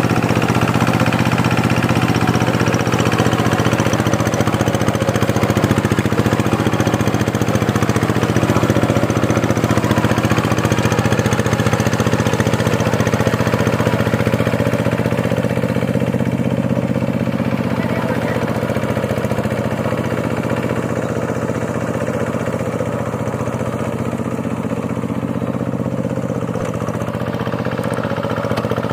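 Two-wheel walking tractor's diesel engine running steadily while it ploughs a muddy paddy field. It becomes slightly quieter and duller about halfway through.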